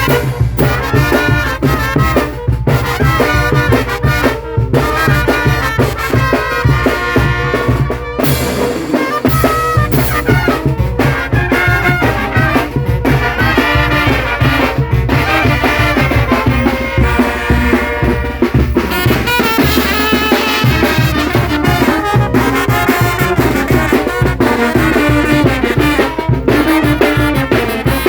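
Mexican brass band playing a lively tune, trumpets and other brass over a steady drum beat.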